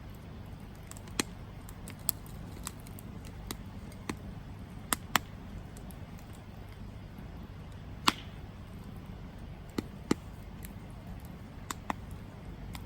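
Wood campfire burning with a low steady rumble, crackling with irregular sharp pops, about a dozen of them, the loudest around the middle.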